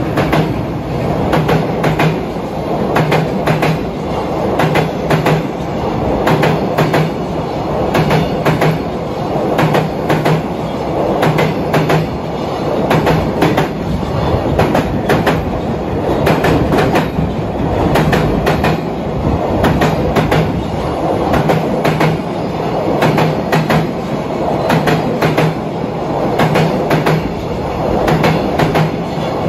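Long container freight train rolling past, its Koki container flat wagons clacking over the rail joints in a steady repeating clickety-clack over a continuous rumble; the blue EF210 electric locomotive at its head has just passed as it begins.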